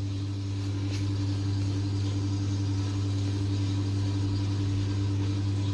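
LG top-loading washing machine with a direct-drive motor running with a steady, even hum and no grinding or knocking. This is the quiet running of the machine once the broken gear that had made a bearing-like cracking noise was dealt with.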